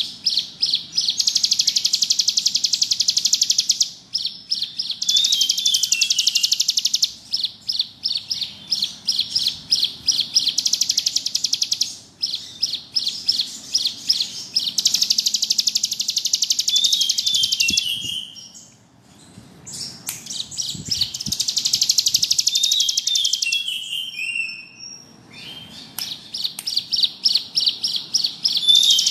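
Ciblek gunung (a prinia) singing a fast, buzzing trill (ngebrem): runs of rapidly repeated high notes lasting a few seconds each with short breaks, mixed with short falling chirps. It goes quiet for about a second around two-thirds of the way through.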